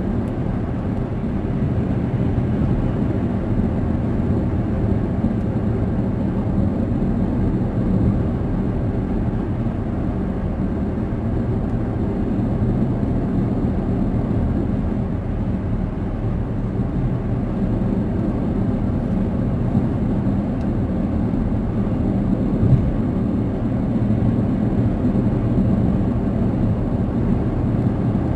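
Steady road noise inside a moving car's cabin: a low, even rumble of tyres and engine, with one brief click about 23 seconds in.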